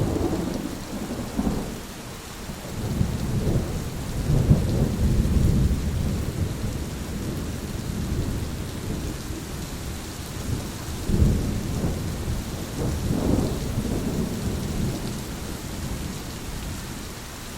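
Thunderstorm: steady heavy rain hissing, with rolling thunder that rumbles low, swelling strongly twice, a few seconds in and again about eleven seconds in.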